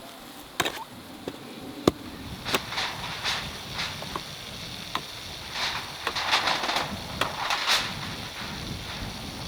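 A few sharp knocks in the first three seconds, then irregular bouts of scraping and rustling about halfway through.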